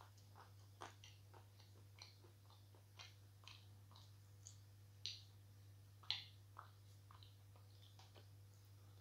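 Faint chewing of a piece of moistened edible chalk: soft, irregular crackles and clicks from the mouth, with two louder ones about five and six seconds in. A steady low electrical hum lies underneath.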